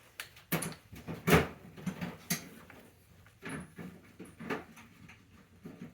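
Irregular sharp clicks and knocks, about eight of them with quiet gaps, the loudest about a second and a half in: hand tools and sockets being handled and fitted while working on a bike.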